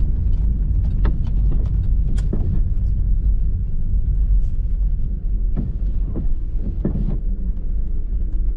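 Low, steady rumble of a Pontiac Firebird driving slowly, with sharp knocks or clicks about a second in, about two seconds in, and three more between five and seven seconds. A faint steady engine note comes in near the end.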